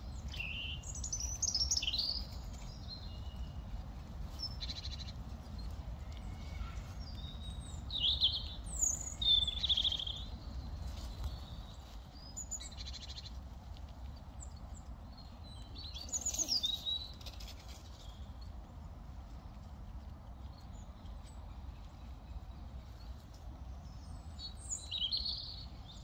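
Wild songbirds calling: short, high chirps and twittering phrases in scattered bursts a few seconds apart, over a steady low rumble.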